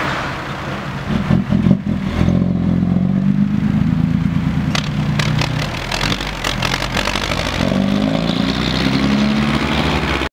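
Six-wheel dump truck's diesel engine revving hard under load as the truck works to pull free of mud, its pitch climbing about a second in and again near the end. A few clanks come midway.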